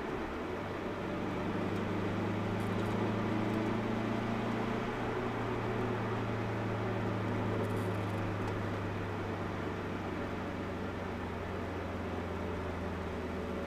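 Cabin sound of a Subaru Impreza WRX's turbocharged flat-four engine through an Invidia cat-back exhaust, running at steady moderate revs with an almost constant pitch that steps up slightly about a second in, over tyre and road noise.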